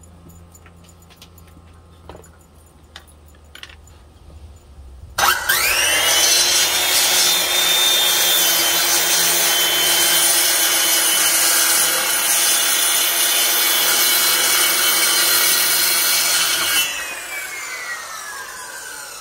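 Handheld circular saw cutting a pine board. A few light knocks come first; about five seconds in the motor starts with a quickly rising whine, then it cuts steadily and loudly for about eleven seconds. It then winds down with a falling whine as the blade coasts to a stop.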